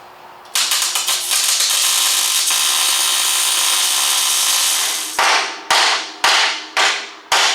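MIG welder laying a tack weld on the steel shock-mount repair plate, a steady crackling arc of about four seconds. Then come five short sharp knocks, about two a second.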